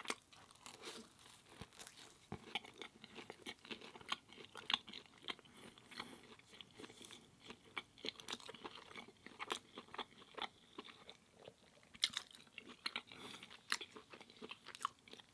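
A person chewing food close to the microphone, with many small, irregular crunches.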